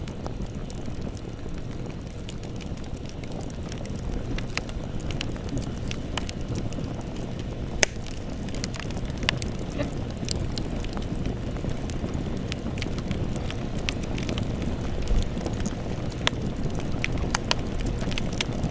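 Campfire burning: a steady low rumble of flames with scattered sharp crackles and pops, one louder pop about eight seconds in.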